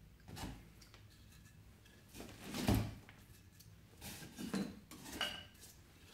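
Pieces of firewood being set into a wood stove's firebox: a few separate knocks and scrapes of wood on wood and on the stove, the loudest about halfway through.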